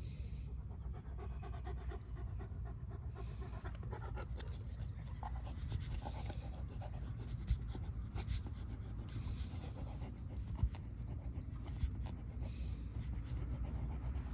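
A dog panting, in repeated breathy puffs over a steady low rumble.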